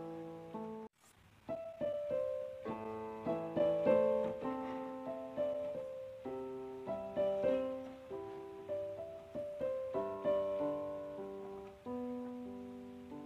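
Solo piano background music, a gentle melody of overlapping notes; it cuts out briefly about a second in, then resumes.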